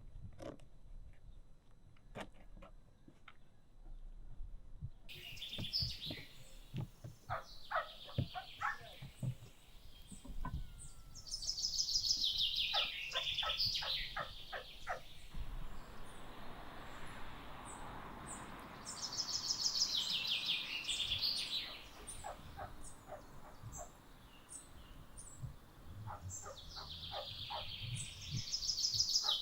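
Birdsong: a bird repeats a fast, chattering trill three times, roughly every eight seconds, with scattered clicks and crackles between the phrases.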